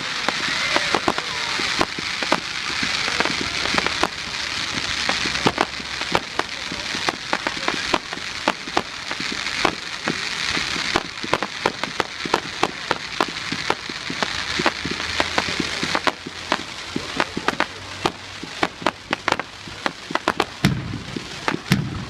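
Fireworks display: a dense, continuous crackle of many small sharp pops over a steady hiss. The pops thin out and grow a little quieter in the last few seconds.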